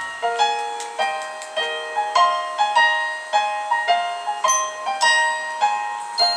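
Piano playing an instrumental passage of bright chords in the upper-middle register, struck about twice a second with no voice.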